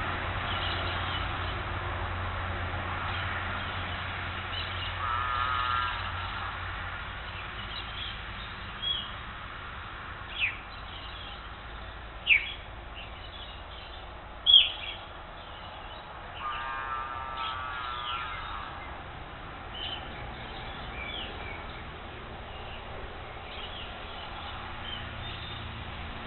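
Wild birds calling: four loud, sharp downward-slurred notes a second or two apart, and two short trills, one before and one after them, over steady background noise.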